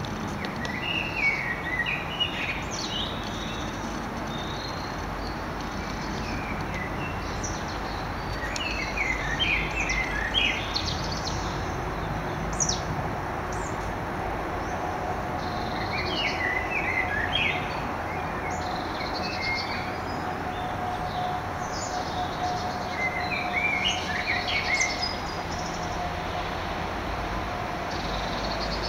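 A songbird singing short phrases of quick chirping notes, four times spaced several seconds apart, over steady outdoor background noise.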